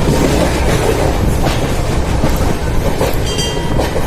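Superfast express train running past at high speed: a loud, continuous rumble with the clack of its wheels over rail joints every so often.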